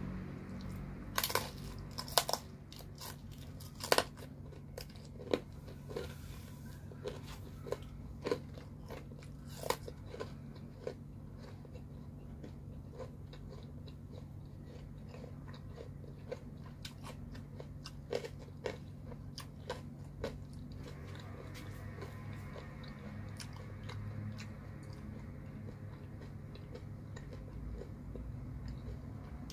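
Close-up biting and chewing of crispy thin-crust pizza: sharp crunches come thick for the first ten seconds or so, then thin out to scattered ones.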